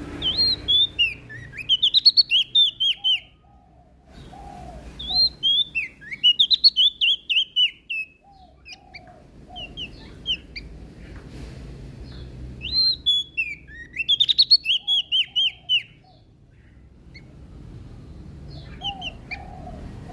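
Prenjak daun (leaf warbler) singing: three bursts of rapid, high, sweeping chirps, each a couple of seconds long. Softer, lower chirps fall in the gaps between them.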